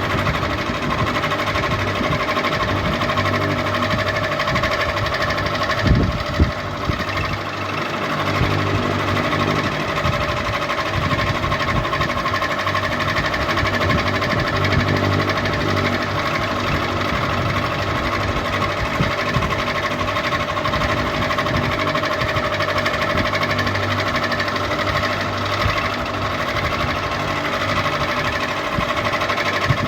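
Electric ceiling fan running steadily, a continuous mechanical hum and whir with a steady tone. Two brief knocks stand out about six seconds in.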